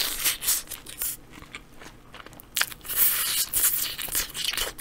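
Close-miked biting and chewing of a large multi-patty burger, with irregular crunches and clicks. The loudest crunching comes about three seconds in.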